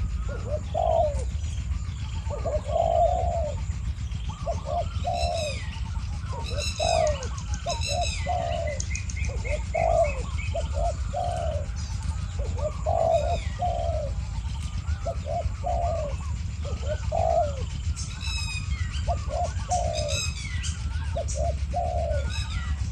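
Spotted doves cooing back and forth: a decoy dove and a wild dove answer each other with repeated coos. A few high, falling call series from another bird come in twice.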